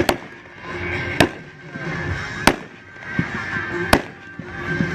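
A 200-gram consumer fireworks cake, Mad Ox Diamond Mine, firing. Four sharp shot reports come about every second and a quarter, with the rushing noise of the breaks between them.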